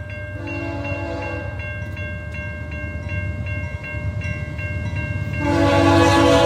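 Electronic crossing bell ringing about three times a second, newly replaced. A multi-tone train horn sounds a short blast about half a second in and a long, louder blast near the end, over the low rumble of an approaching train.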